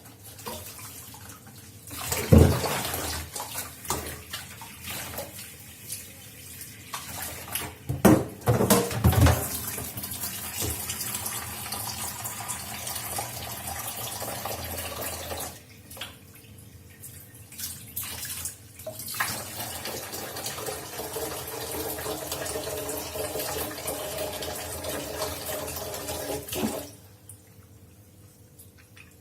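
Kitchen tap running into a sink while intestines are washed by hand. The water stops twice for a few seconds, and there are a few loud knocks and clatters a couple of seconds in and again around eight to nine seconds in.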